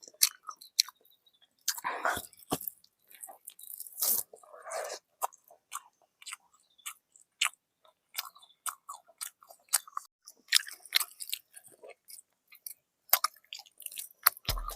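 A person chewing and biting into fried chicken, with many irregular crackly crunches and wet mouth clicks.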